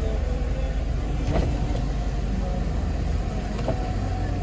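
Hyundai Porter II truck idling with a steady low hum, and a single click about a second and a half in.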